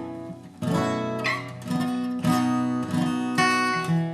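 Acoustic guitar playing a bluegrass rhythm passage: a series of strummed chords, each ringing on until the next.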